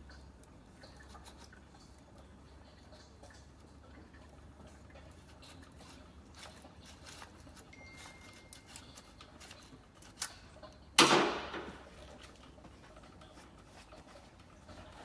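Scattered light clicks and ticks of handling work, with one loud, sudden noisy clatter about eleven seconds in that fades within a second.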